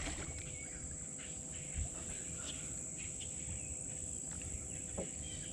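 Quiet outdoor ambience: a steady high-pitched insect drone over a low background rumble, with a light knock about five seconds in.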